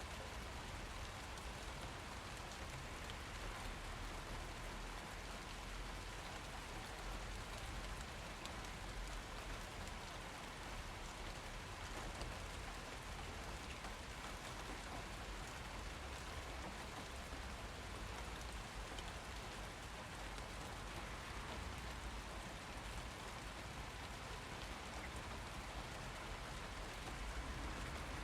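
Steady rain falling, a constant hiss with many small drop ticks and patters on surfaces.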